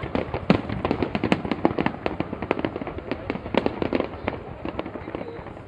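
Fireworks display: many shells and crackers bursting in quick succession, a dense run of bangs and crackles that thins out a little near the end.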